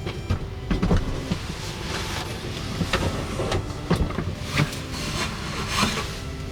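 A steady low motor hum with irregular sharp knocks and clicks over it, coming every half second to a second.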